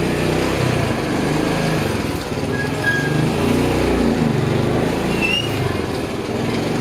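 Motorcycle engine pulling in first gear up a slope, its note wavering, over street noise. Two brief high chirps sound about three and five seconds in.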